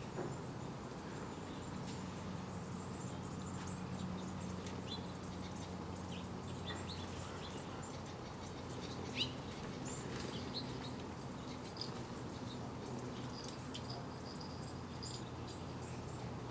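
Outdoor ambience of scattered wild bird chirps over a steady low hum, with a single sharp click about nine seconds in.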